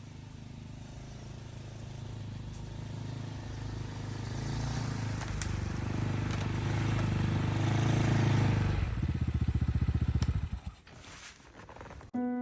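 Snowmobile engine running and growing louder, then dropping to a slow pulsing idle and cutting out about ten and a half seconds in.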